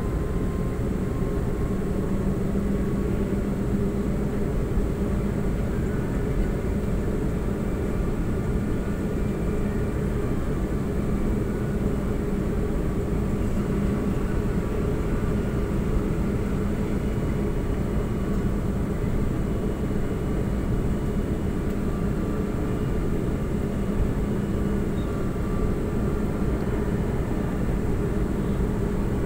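Steady drone inside a crowded MRT Line 3 light-rail car, the car's running and air-conditioning noise, with faint whining tones above the rumble.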